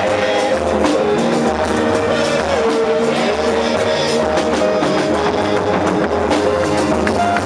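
Band music with guitar and drums keeping a steady beat, with little or no singing.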